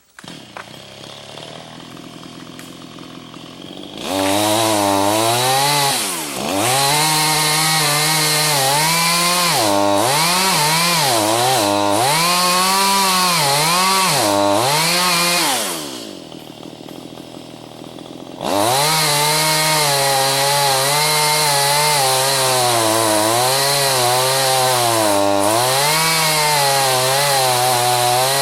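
Two-stroke chainsaw idling, then run up to full throttle and cutting green ash, its engine speed wavering and dipping as it labours under load. About two-thirds of the way through it drops back to idle for a couple of seconds, then revs up and cuts again.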